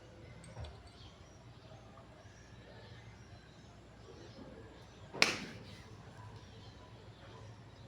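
Faint bird chirps over quiet outdoor background, with one sharp knock a little past halfway through.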